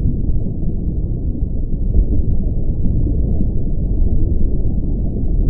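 Continuous muffled low rumble of water heard through a camera submerged in its waterproof housing, with nothing above a low muffle.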